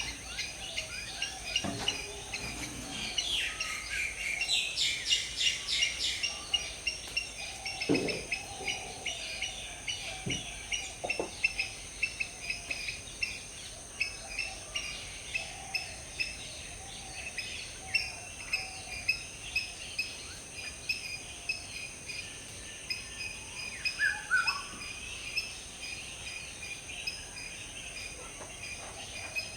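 Chorus of wild birds in tropical woodland, with many short chirps and calls throughout and a rapid run of chirps about four to six seconds in. A steady high-pitched hum lies under the birdsong.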